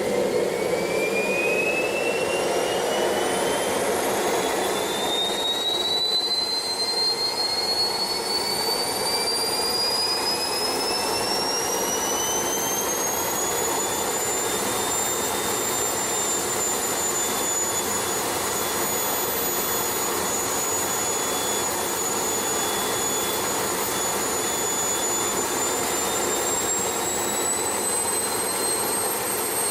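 Twin engines on a test run, spooling up: a high whine rises steadily in pitch through about the first half, then holds steady at high speed over a constant rushing noise.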